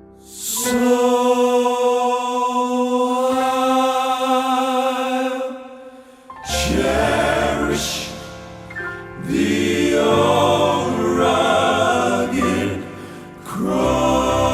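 Male gospel quartet singing in close four-part harmony: a long held chord, then, after a short break, further sung phrases that move in pitch.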